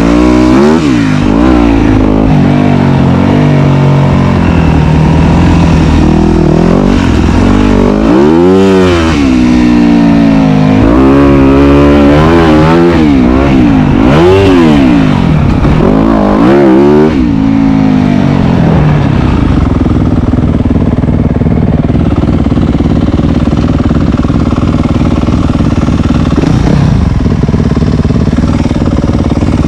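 Dirt bike engine revving up and down while riding a trail, the pitch rising and falling several times in quick succession. After a little past halfway it settles into a steadier, lower drone.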